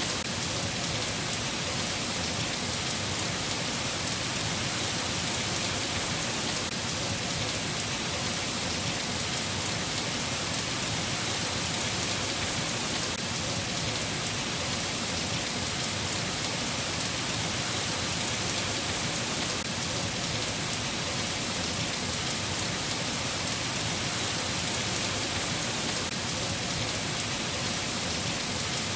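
Steady rain falling: an even, unbroken hiss with fine pattering drops.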